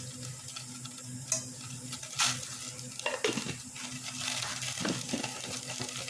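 Food sizzling in hot oil in a pan over a strong flame, stirred with a utensil, with a few sharp scrapes and knocks against the pan.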